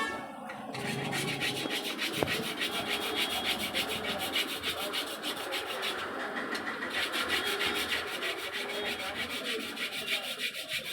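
Rapid rhythmic rubbing or scratching, about five strokes a second. It starts about a second in and keeps going with a short break midway.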